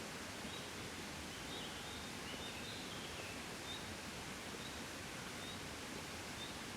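Gentle steady wind. Faint high chirps repeat about once a second throughout, and a short run of falling chirps comes in the first half.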